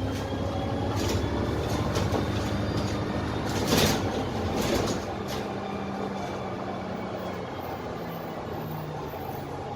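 Dennis Trident bus's Cummins ISMe 10.8-litre diesel engine running under way, heard inside the lower deck, with its note dropping in the second half. A short loud burst of hiss comes about four seconds in.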